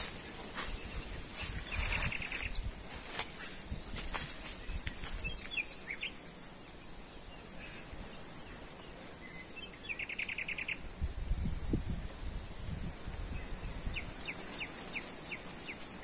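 Small songbirds calling: a short rattling trill twice, and a quick run of about eight high chirps near the end. Behind them is a steady high-pitched hiss, and at times a low rumble of wind on the microphone.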